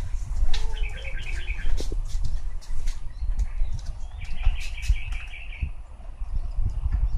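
A bird calls twice, each a fast run of repeated high chirps lasting about a second, near the start and again about four seconds in. A low rumble and scattered clicks run underneath.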